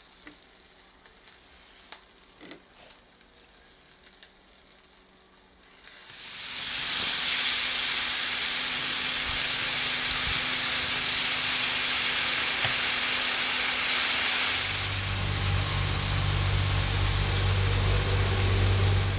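Marinated chicken pieces sizzling in hot oil in a frying pan. The loud sizzle starts about six seconds in, after a quieter stretch with a few light clicks. Near the end it eases as the pieces are turned with metal tongs, and a low steady hum comes in.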